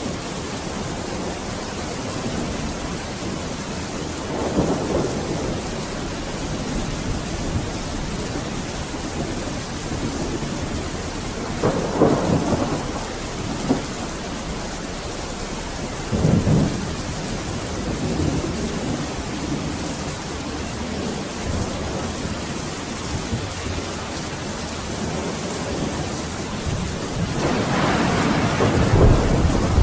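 Steady, heavy-sounding rain with rolls of thunder: low rumbles swell a few seconds in, near the middle and a little after, and a louder, longer rumble builds near the end.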